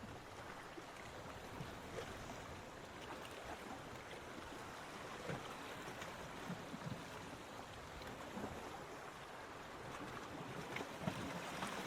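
Surf washing steadily onto a beach, with small fizzing crackles of water, swelling slightly near the end.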